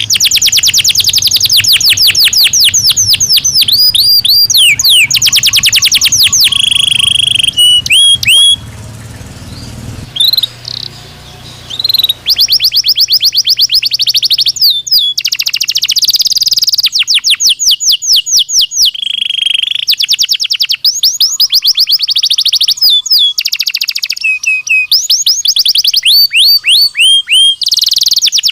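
Belgian canary singing: long runs of fast trills of rapidly repeated high notes, broken by steady held high notes, with a short lull about a third of the way through.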